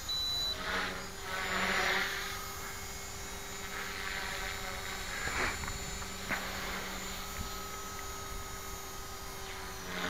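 Small electric RC helicopter (a 450-size flybarless T-Rex clone) in flight, its motor and rotor giving a steady whine with a couple of louder swells about a second or two in and two brief sharp surges in the middle.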